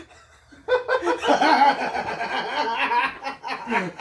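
People laughing, starting about half a second in and carrying on without words.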